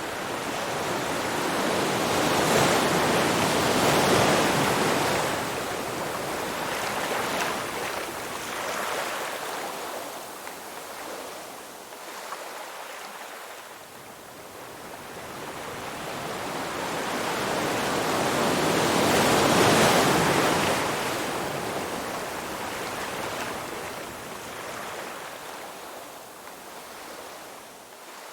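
Ocean waves washing onto a shore: two slow swells of surf, one building to a peak a few seconds in and another about two-thirds of the way through, each ebbing back into a softer hiss.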